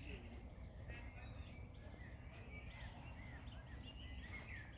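Several songbirds chirping and singing in short phrases over a steady low hiss of wind in the trees, with a burst of calls near the end.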